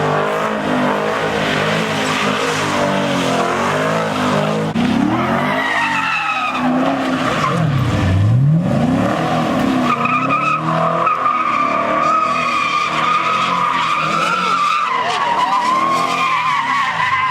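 A car engine revving hard with its tyres squealing and skidding as it spins donuts; the engine pitch drops and climbs again about eight seconds in, and a high, steady tyre squeal holds through the second half.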